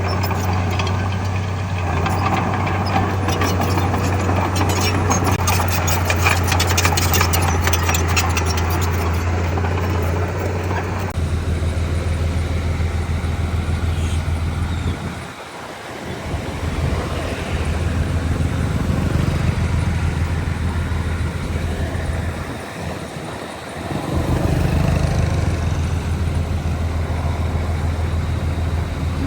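Heavy diesel engine of earthmoving machinery running steadily, with a fast rattle of knocks over the first ten seconds. The sound changes abruptly about eleven seconds in, and the engine drops away briefly twice.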